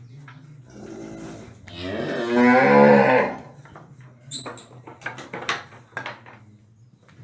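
Cow mooing: a softer low call about a second in, then one long, loud moo, followed by a few short knocks and clicks.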